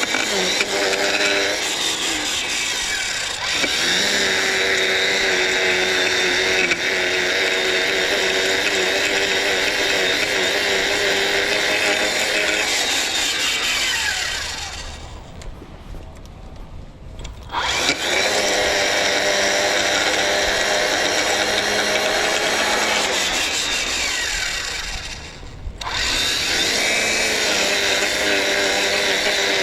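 Battery-powered TORO 60-volt lawn tool running at full speed with a steady high whine. It winds down to a stop about halfway through and again near the end, each time spinning back up after a second or two.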